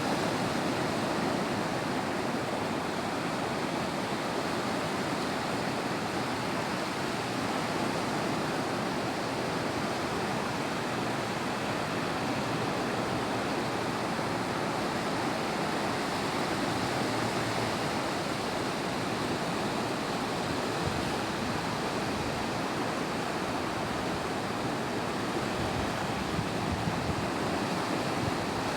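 Sea surf breaking on a beach: a steady, unbroken wash of waves with no distinct separate crashes.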